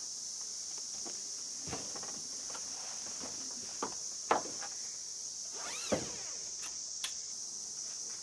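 Steady high-pitched insect chorus, with a handful of sharp knocks and clicks on top, the loudest about four seconds in and one near six seconds with a short rising-and-falling squeak.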